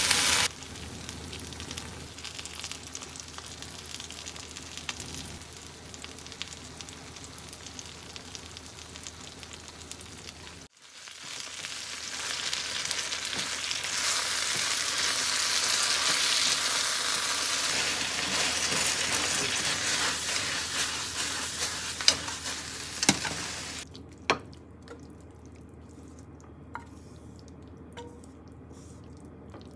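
Sliced pork, eggplant and broccoli sizzling in a frying pan as they are stir-fried with chopsticks, with a few sharp clicks of the chopsticks against the pan. Near the end the sizzle dies down and light clinks follow as the food is tipped out onto a ceramic plate.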